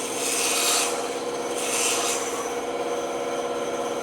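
Wood being abraded by hand, two rasping strokes about a second and a half apart, over a steady machine hum.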